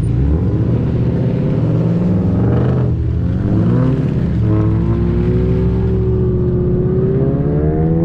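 Audi S5 engine accelerating under load. Its pitch climbs for about three seconds, drops at a gear change, then climbs again and settles into a steady, slowly rising pull.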